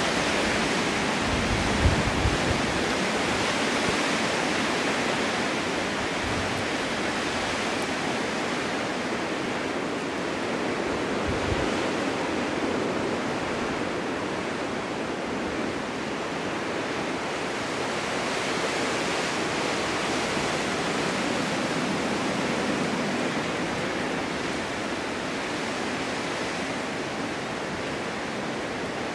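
Strong winter wind blowing steadily across an open forest meadow, a continuous rushing that swells and eases slowly, with a couple of brief low rumbles about two seconds and eleven seconds in.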